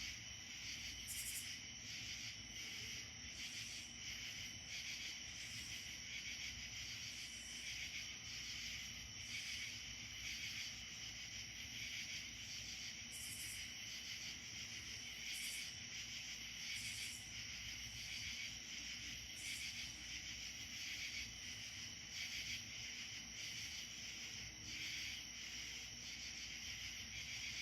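A chorus of crickets and other insects trilling steadily, with short higher-pitched buzzes breaking in every few seconds.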